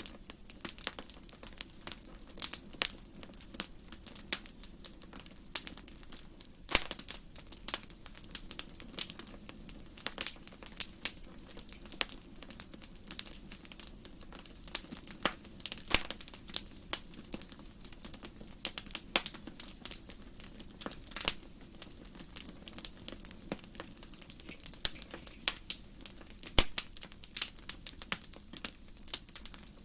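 Wood fire burning in a fireplace, crackling and popping with many irregular sharp snaps over a low steady rush of the flames.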